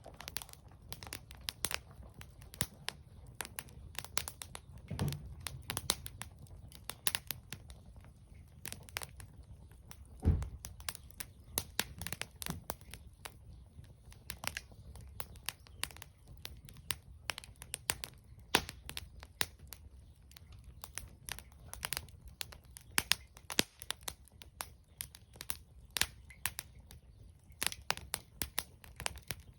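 Bonfire crackling: irregular sharp snaps and pops from burning wood, with one louder pop about ten seconds in.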